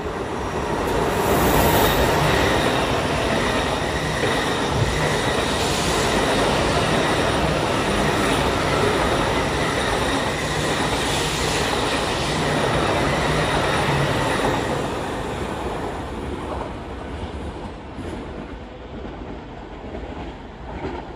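Two coupled ETR 610 electric trainsets passing along the platform track: a loud, steady rush of wheels and car bodies with a faint high squeal from the wheels. The sound builds in the first two seconds and fades over the last several seconds as the train moves away.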